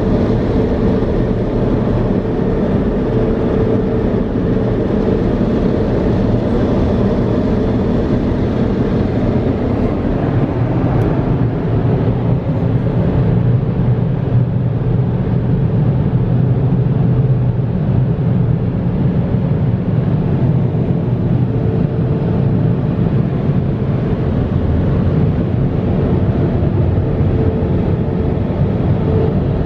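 Laserwash touchless automatic car wash machinery running: a loud, even noise with a steady low hum that holds throughout.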